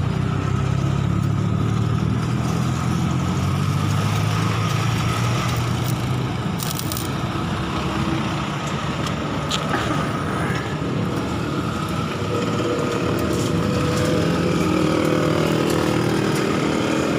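Benelli TNT 600i's inline-four engine idling steadily through a freshly fitted Two Brothers aftermarket exhaust.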